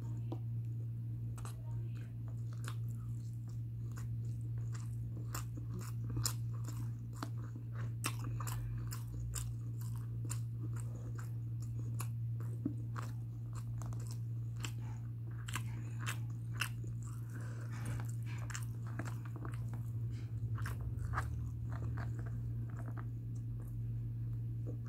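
Close-up chewing of mutton biryani eaten by hand: wet mouth clicks, smacks and bites at an uneven pace, over a steady low hum.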